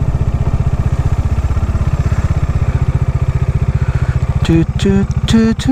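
Motorcycle engine running at a steady speed under way, with a low, even pulse. A few short voice-like sounds come near the end.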